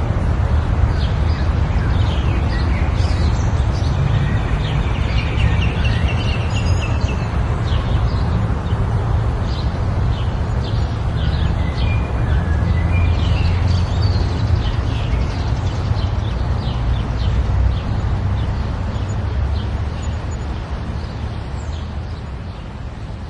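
Several birds chirping and twittering in short, overlapping calls over a steady low rumble, fading out near the end.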